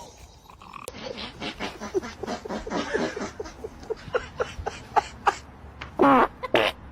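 A dog vocalizing in a run of short, pitched grunts and yips, several a second, ending in two longer, louder cries near the end.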